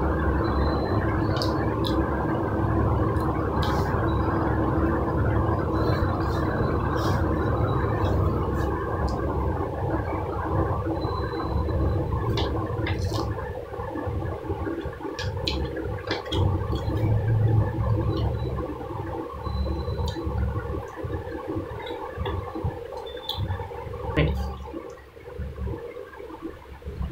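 Close-miked chewing and wet mouth sounds of a person eating mutton biryani by hand, with scattered sharp lip smacks and clicks. It gets quieter and more broken about halfway through.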